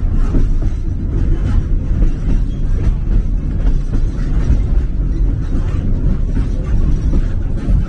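Steady low rumble of a narrow-gauge passenger train rolling along the track, heard from on board.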